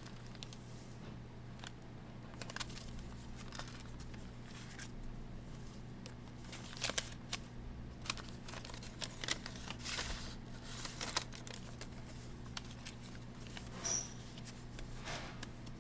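Paper bag journal pages being turned and handled: irregular rustles and crinkles of paper, with a steady low hum underneath.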